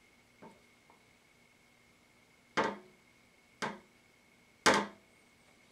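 A few sharp knocks of hard parts on the bow as the String Sight's tightening strings are pulled and the sight is handled: two faint ones early, then three louder ones about a second apart over the second half.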